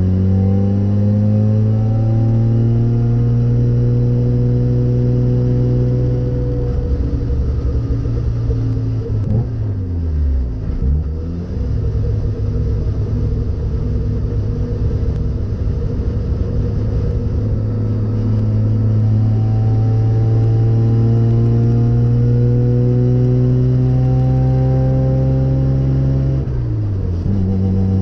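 Race car engine heard from inside the stripped, caged cabin, pulling in gear with its revs climbing slowly. About ten seconds in, the revs drop and climb again before the engine pulls steadily once more, with another brief dip near the end.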